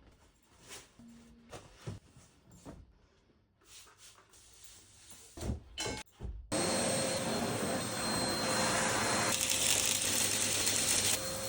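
Light knocks and handling noises, then about halfway through a vacuum cleaner switches on abruptly and runs with a steady whine.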